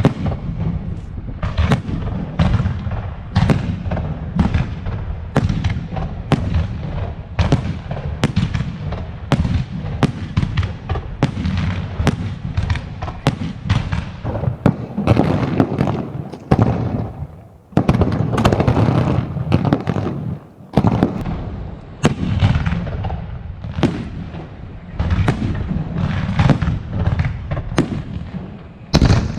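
Aerial fireworks display going off in a rapid, near-continuous barrage of bangs and crackling, with a deep rumble underneath. It eases off briefly twice, about two-thirds of the way through.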